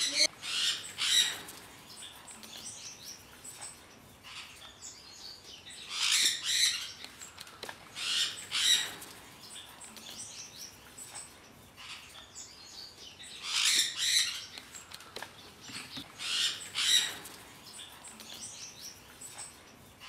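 Small caged aviary birds chirping and twittering, in bursts of rapid high-pitched chirps every few seconds over fainter continuous twitter.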